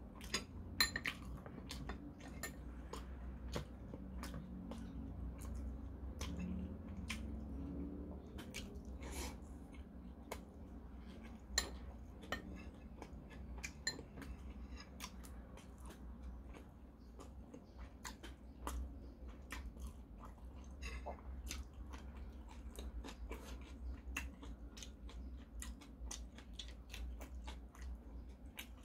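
A person chewing and biting food close to the microphone, with many small sharp clicks from mouth sounds and metal chopsticks on dishes, over a low steady hum.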